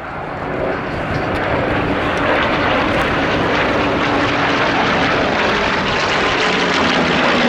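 Propeller-driven WWII fighter's Rolls-Royce Merlin V12 piston engine running at display power overhead, growing louder over the first two seconds and then holding steady.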